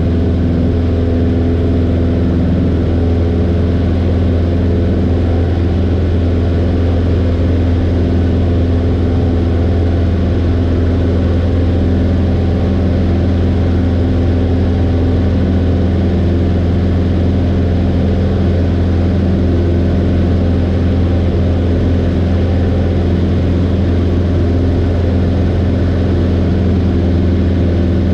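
Light aircraft's piston engine and propeller running steadily, a constant low drone that holds the same pitch throughout.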